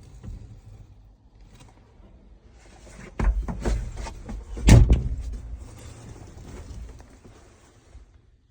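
A diesel tractor engine runs low and steady. A cluster of loud knocks and clatter comes about three to five seconds in, the loudest just before the five-second mark, and the sound fades out near the end.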